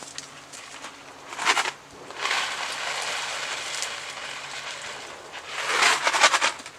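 Cardboard pasta box rustling and rattling as dry noodles are poured out, in bursts: a short one, a longer one of about three seconds, then a loud one near the end.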